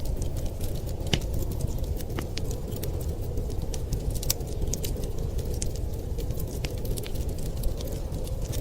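Crackling wood fire in a fireplace, with frequent small sharp pops and snaps scattered irregularly over a steady low rumble.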